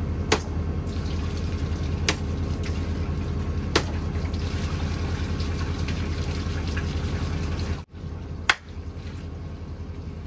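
Engine oil and transmission fluid running out of holes knocked in a scrap car's oil pan and transmission pan into a container, over an engine running steadily. A few sharp knocks come through, the loudest near the start.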